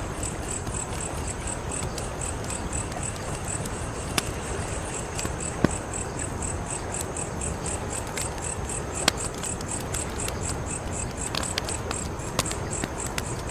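Wood fire burning with a steady low rush and scattered crackles, with a few sharper pops. Crickets chirp throughout in a rapid, even, high-pitched pulse.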